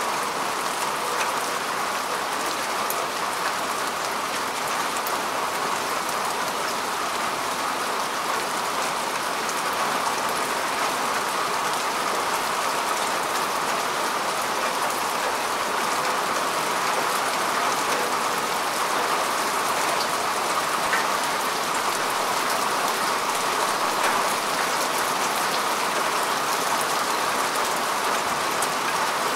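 Steady rain falling on grass and earth, an even hiss with scattered individual drop ticks.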